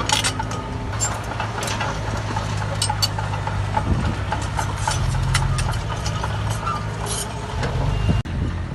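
Heavy diesel earthmoving machinery running steadily, with sharp metallic clanks and clicks scattered through it.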